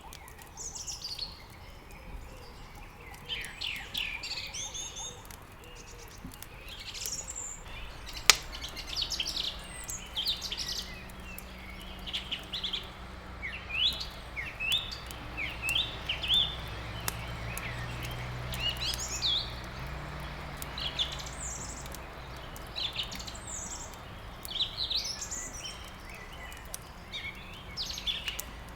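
Several small birds chirping and trilling over one another, with scattered crackles from burning wood in a fireplace and one sharp, loud crack about eight seconds in. A low steady hum comes in at about the same moment.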